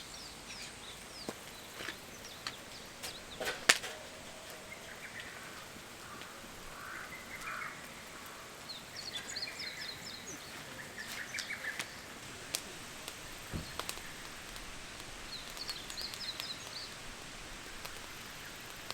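Outdoor ambience with birds singing short high phrases, repeated about every six seconds, over a steady background; scattered sharp clicks and knocks, the loudest a few seconds in.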